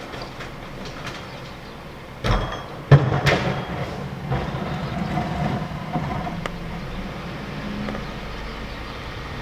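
Garbage truck engine running, with two loud metallic bangs about two and three seconds in, typical of a trash can striking the truck's hopper. The engine then runs louder with a steady hum for several seconds before settling back.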